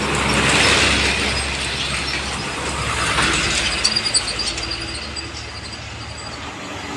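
Heavy road vehicles passing close by. Engine and tyre noise swells about a second in and again around three seconds, with a brief clattering rattle around four seconds.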